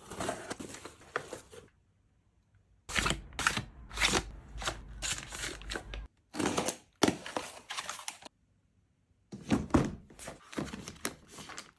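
Household items being handled and set down: clusters of clicks, taps and knocks, in short clips cut apart by sudden drops to silence.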